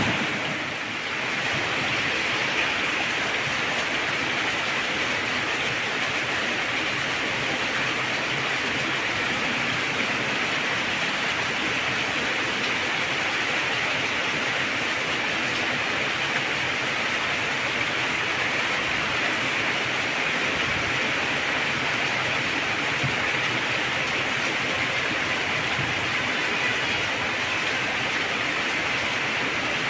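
Heavy rain falling in a steady, even downpour. A roll of thunder fades out in the first second.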